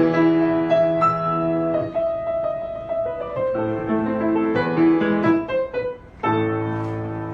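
Background piano music: slow sustained chords and single notes, with a brief quiet dip about six seconds in before a new chord.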